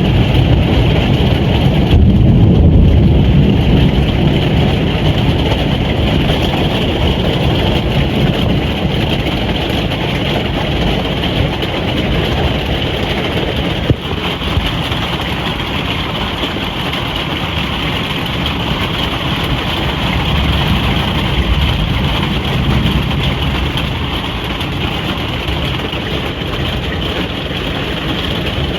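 Steady storm rain drumming on a caravan roof, heard from inside the caravan, with a deep low rumble under the patter that swells a couple of seconds in.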